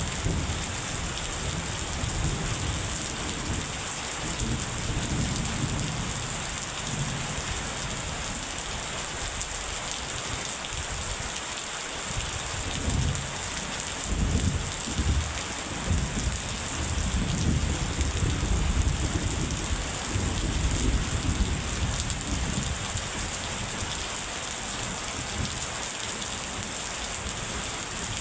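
Steady rain falling, with low rolling thunder rumbling underneath that swells and fades, strongest in the second half.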